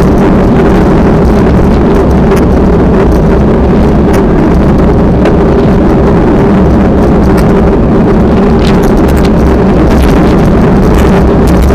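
Strong wind buffeting the microphone: a loud, steady low rumble that does not let up.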